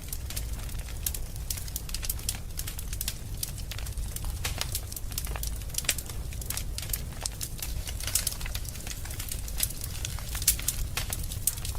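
Wood fire burning in a fireplace, with irregular sharp crackles and pops several times a second over a steady low rumble.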